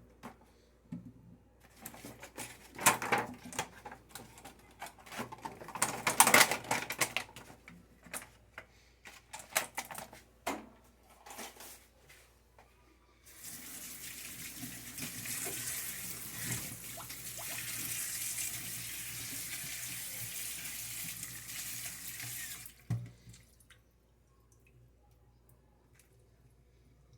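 A run of scattered knocks and clatter, then a tap running into a sink for about nine seconds before it is shut off.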